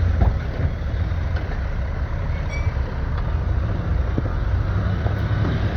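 Diesel engine of a grabber truck running steadily while it loads rubble, with a few faint knocks.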